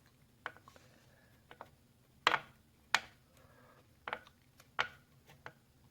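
Defective bearing on a Razor E Prime electric scooter clicking, a series of sharp, irregular clicks about one or two a second. The bearing is bad and does not roll freely.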